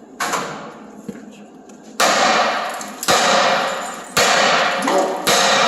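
Heavy hammer blows on a steel truck bumper: five hard strikes about a second apart, each ringing briefly and dying away.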